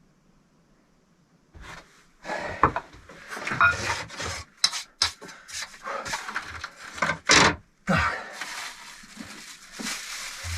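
Bricks being handled and fitted: an irregular run of scrapes, rubs and sharp knocks that starts about a second and a half in.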